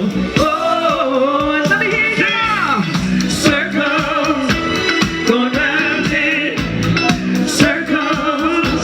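Live soul band with a singer holding a long, climbing note over the accompaniment, then continuing with shorter sung phrases, played loud through a large outdoor PA.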